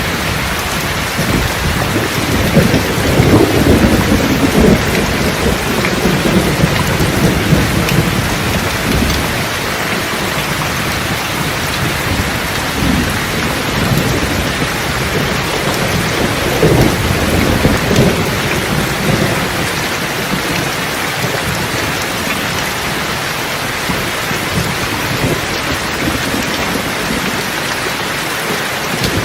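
Steady rain falling, with thunder rumbling low under it from about two seconds in until about nine seconds, and a weaker rumble again a little past halfway.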